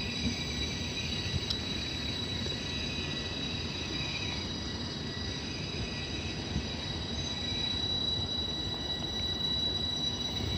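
FS E.402 electric locomotive train at the station: a low, even rumble with a steady high whine held throughout.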